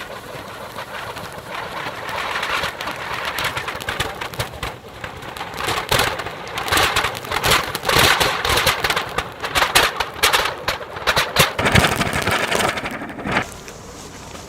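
Anar fountain firecrackers fixed to a table fan's blades, hissing and crackling as they spray sparks. The hiss builds over the first two seconds and is loudest with dense crackling in the middle. It falls away sharply near the end as the fountains burn out.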